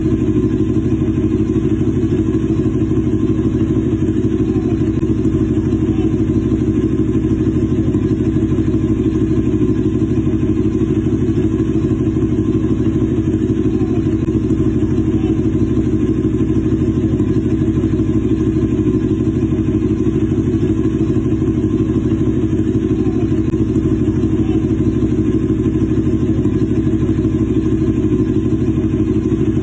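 Large-displacement motorcycle engine idling steadily, its exhaust note holding at one even pitch.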